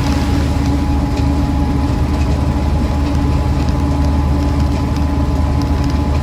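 1966 Land Rover Series IIa 88-inch's 2.25-litre four-cylinder petrol engine and drivetrain running steadily on the move, a constant drone with a steady whine over it.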